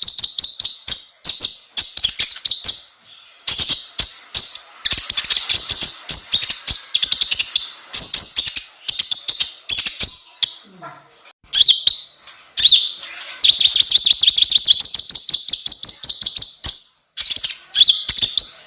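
Konin (kolibri ninja) sunbird singing: long phrases of fast, high-pitched chattering trills, broken by a few short pauses.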